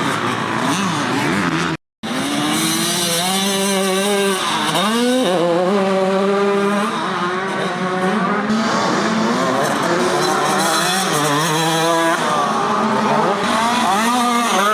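Several motocross bikes' engines revving hard and shifting, their pitches climbing and dropping over one another as they race. The sound cuts out completely for a moment about two seconds in.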